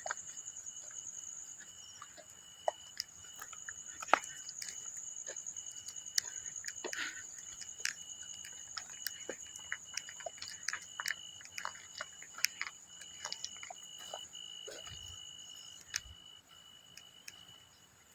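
Night insects such as crickets trilling steadily in two high, unbroken tones, with irregular dry crackles and snaps scattered throughout.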